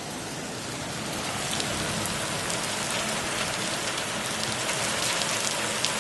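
Heavy rain pouring down steadily, with faint scattered ticks of drops striking close by.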